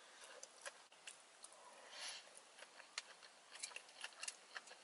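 Faint chewing of a mouthful of sushi roll: soft, irregular mouth clicks and small wet smacks.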